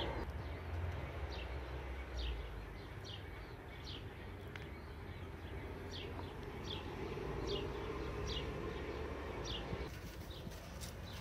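A small bird chirping over and over, short high chirps that fall in pitch, about one or two a second, over a steady low background hum.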